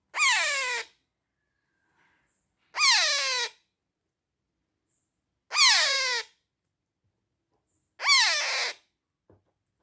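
A 25-day-old parrot chick calling four times, each call under a second long and sliding down in pitch, a couple of seconds apart.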